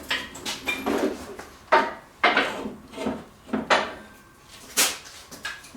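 Parts and tools being shifted and handled during repair work: a dozen or so irregular scrapes, rubs and knocks.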